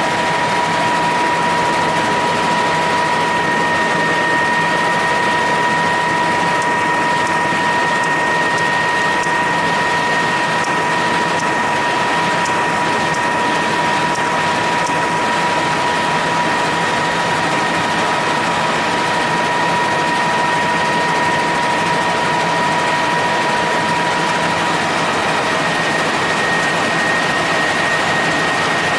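Helicopter in flight: steady, loud engine and rotor noise with a high steady turbine whine. The lower of two whine tones drops away near the end.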